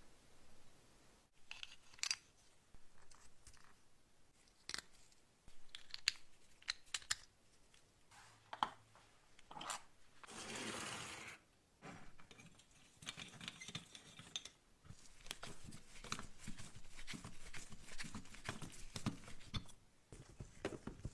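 Small hand-work sounds on a bench: scattered clicks, taps and scraping of small parts being handled, with a brief rush of noise about ten seconds in.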